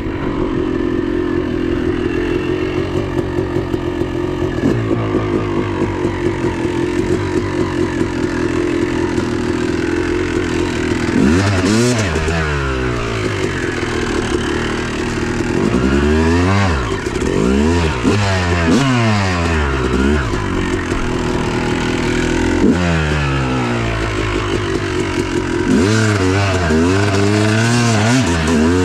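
Yamaha YZ250 two-stroke dirt bike engine under way, held at a steady high pitch for about the first ten seconds. It then revs up and drops back over and over as the throttle is worked and gears change.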